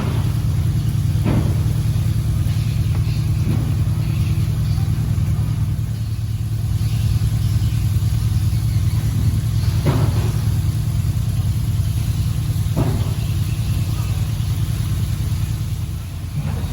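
Boat engine running steadily with a low hum, with a few brief knocks.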